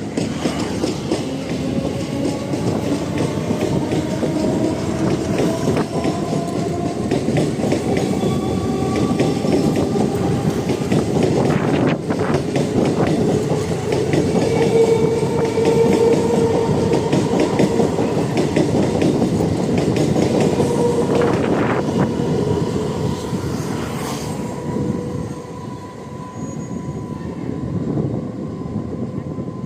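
Chennai suburban electric multiple unit train accelerating. Its traction motors whine with a rising pitch over the first ten seconds or so, then hold steady over the rolling clatter of the wheels. A few sharp knocks come about 12, 21 and 24 seconds in, and it grows quieter near the end.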